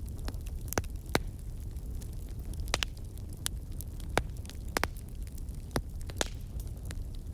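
Wood fire crackling in a fireplace: irregular sharp pops and snaps, one or two a second, over a steady low rumble of the burning fire.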